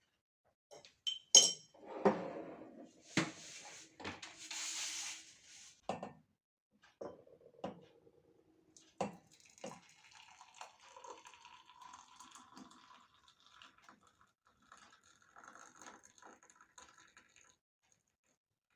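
A steel spoon and cup clinking and knocking as coffee powder is spooned in, with a short pour of hot water from the electric kettle about four to five seconds in, then lighter tinkling of the spoon against the cup.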